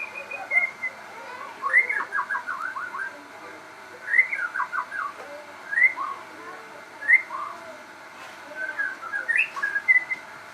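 Crossbred murai (white-rumped shama) singing a vigorous, varied whistled song. Short phrases of clear whistles and quick runs of sliding notes come in bursts every second or two.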